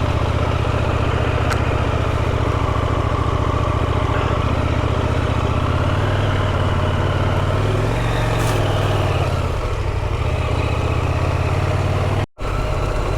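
Motorcycle engine running at low trail speed, pulling steadily with a rise and fall in engine pitch about eight seconds in. The sound cuts out completely for a moment near the end.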